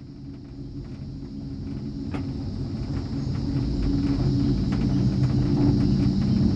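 Skyrail gondola cable car running along its cable, a low mechanical rumble with small clicks and rattles that grows steadily louder.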